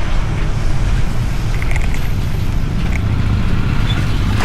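Wind buffeting an action camera's built-in microphone on a moving bicycle: a loud, uneven low rumble with a steady hiss of rushing air and road noise.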